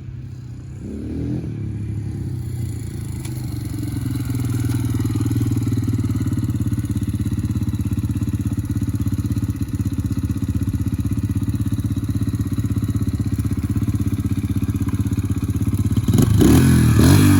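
A Yamaha TT-R125L dirt bike's single-cylinder four-stroke engine running. It grows louder over the first few seconds, holds steady, then revs up and down a few times near the end.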